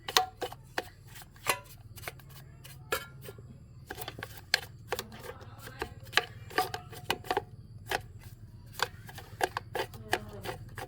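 Irregular sharp clicks and knocks of tools and metal parts being handled during machine repair, some with a brief ring, over a steady low hum.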